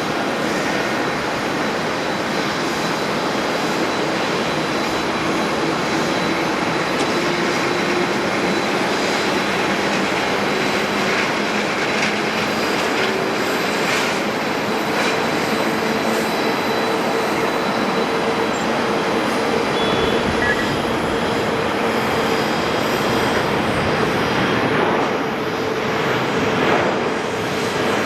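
Jet airliner engines running in a steady roar, with faint tones drifting slowly in pitch.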